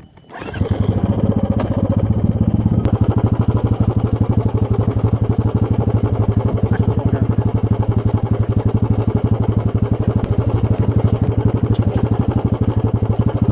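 Motorcycle engine starting about half a second in and then running steadily at an even pace, loud and close, with a fast regular pulse.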